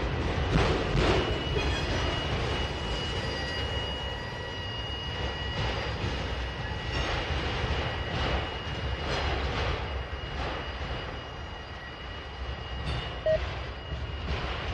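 Norfolk Southern freight train of autorack cars rolling past, its wheels clacking over rail joints about once a second, with a thin high wheel squeal a few seconds in. The rumble grows fainter as the last cars move away.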